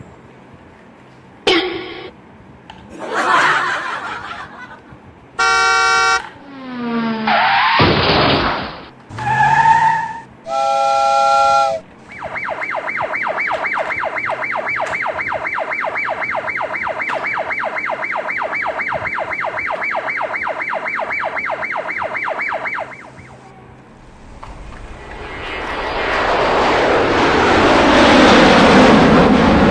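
A string of cartoon-style vehicle sound effects. First come short horn-like toots and beeps, a click and a falling whistle. Then a long, even, rapid buzzing rattle lasts about ten seconds, and a rushing roar swells up near the end.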